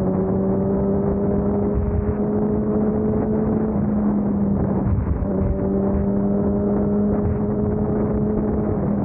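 A vehicle engine running under load on the road with a steady low rumble, its pitch creeping up. Partway through, the upper tones drop out for a second or two and then return, like a gear change.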